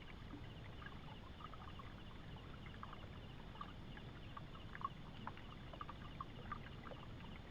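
River water flowing and gurgling, with many small irregular splashes and drips over a low steady rush. A faint, fast, regular chirping runs underneath.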